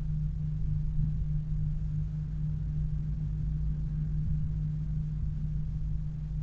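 Steady low rumble of an e-bike being ridden, with a constant low hum under it and no sudden events.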